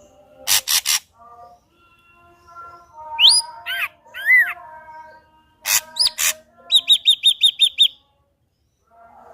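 Ashy drongo singing a varied phrase. It opens with a few short harsh notes, then gives rising and falling whistles and more harsh notes, then a quick even run of about eight short high notes, and pauses near the end.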